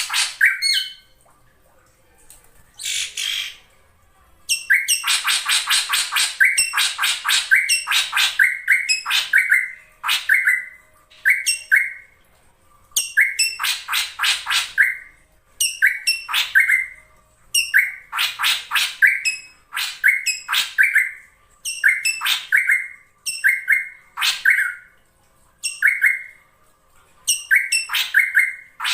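Female drongo (srigunting) calling in repeated bouts with short pauses between them: each bout is a quick run of harsh, rapid notes, often ending in a clearer, bending whistle-like note, with a few longer chattering runs. A female call of this kind is used as a lure to draw male drongos into singing.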